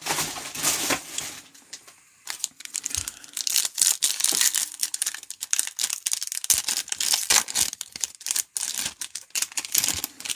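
Trading-card pack wrapping being torn open and crinkled: a dense run of sharp crackles and rustles.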